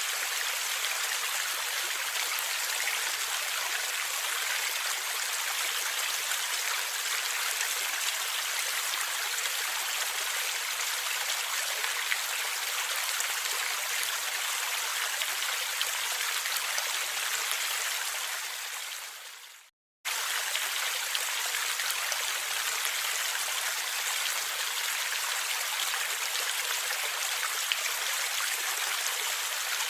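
Stream water flowing steadily, an even rushing and gurgling. About two-thirds of the way through it fades out to a moment of silence and then cuts straight back in, the seam of a looped recording.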